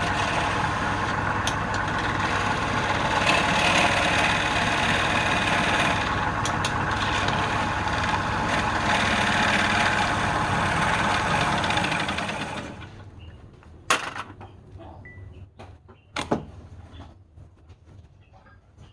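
Wood lathe running steadily, then switched off about two-thirds of the way through and dying away within a second. A few sharp knocks follow as the piece or tools are handled.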